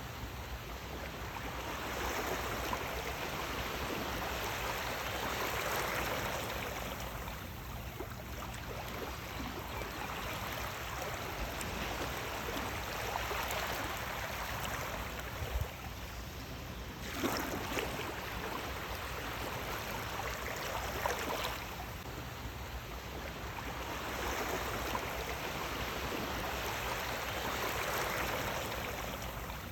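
Sea waves washing in, a continuous rush of water that swells and falls back every several seconds, with a few brief splashes.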